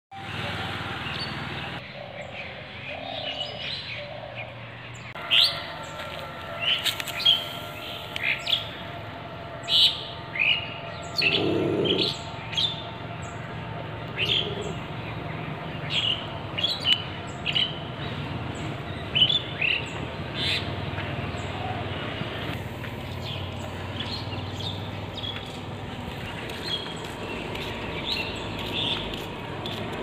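Small birds chirping repeatedly, short sharp calls every second or so, over a steady low background rumble. A brief, lower-pitched sound comes near the middle.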